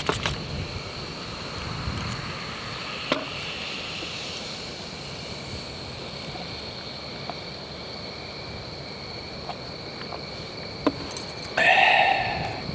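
Steady high-pitched insect trilling with scattered light clicks and knocks, and a short louder clatter near the end.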